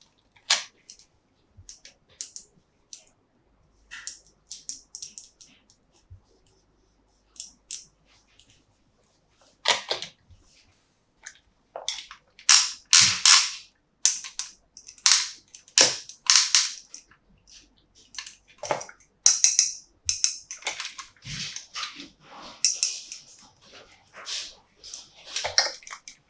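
Plastic toy parts and packaging being handled: irregular sharp clicks and crinkles, sparse at first and coming thicker and louder from about halfway.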